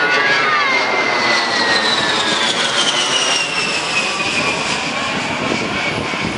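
A-10 Thunderbolt II's twin TF34 turbofan engines on a low pass. The high jet whine slides steadily down in pitch as the aircraft goes by, over a constant rushing roar that eases slightly toward the end.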